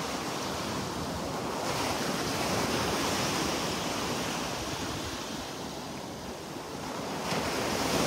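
Wind rushing outdoors and buffeting the microphone, a steady hiss that swells about two seconds in and eases again a few seconds later.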